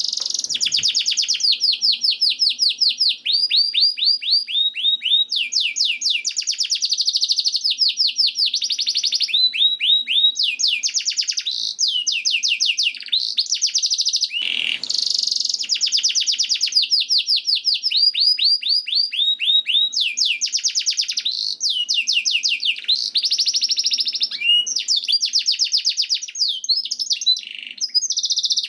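Domestic canary singing continuously in long runs of rapid trills, each phrase a quick series of repeated notes, with only brief pauses between phrases and a faint low hum underneath.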